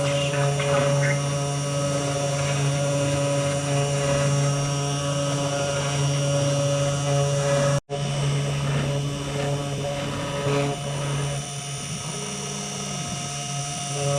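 Spindle motor of a small, inexpensive desktop CNC router running steadily while it carves a wooden sign: a constant motor hum and whine. The sound drops out for an instant a little past halfway, then carries on.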